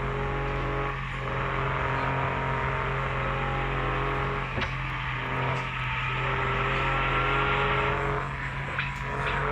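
Mitsubishi L300's engine running under way with steady road noise, its note rising for a couple of seconds past the middle and dropping back near the end.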